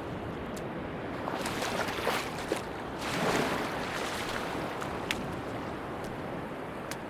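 Sea waves washing onto a beach: a steady rush, with a wave surging in about a second and a half in and another around three seconds, and a few scattered small clicks.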